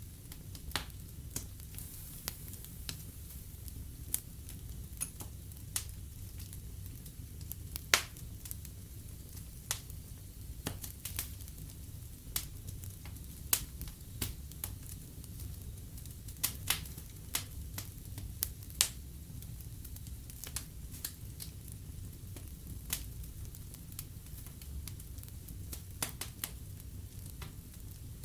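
Wood fire burning in a fireplace: a steady low rumble with irregular sharp crackles and pops, a few of them loud.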